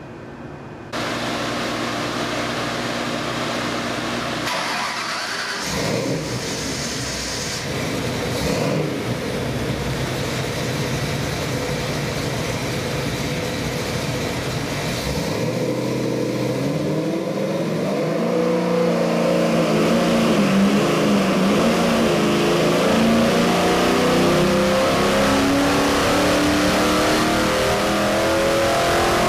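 Carbureted Ford 347 stroker small-block V8 running on an engine dyno: it comes in suddenly about a second in, holds fairly steady, then from about halfway climbs steadily in pitch as it is pulled up through the revs.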